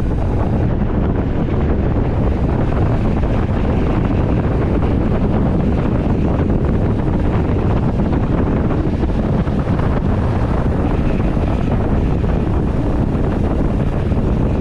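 Steady wind noise on an onboard action camera's microphone while riding a mountain bike.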